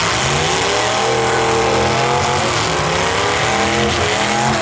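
Engines of several full-size demolition derby cars revving, their pitch rising and falling and overlapping.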